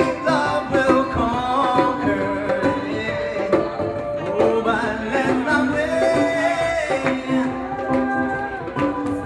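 Live improvised acoustic music: a held drone under a wandering melodic line, with frequent sharp hand-percussion strokes.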